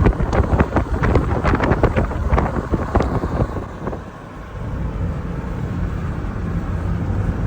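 Wind rumbling and crackling on the microphone, easing about four seconds in to a steadier low rumble.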